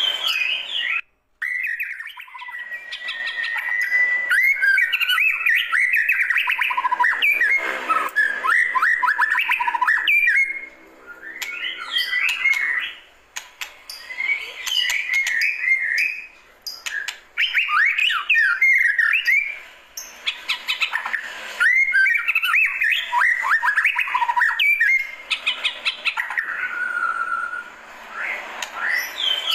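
White-rumped shama singing a long, varied song of clear whistles and fast chattering trills, broken by a few short pauses.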